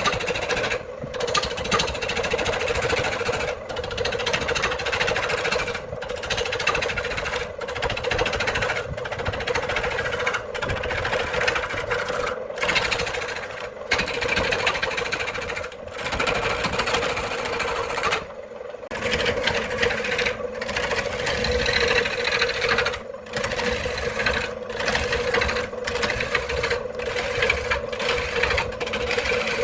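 Electric woodworking machinery running on wood: a steady motor hum with grinding, cutting noise over it, broken by brief sudden dropouts every second or two.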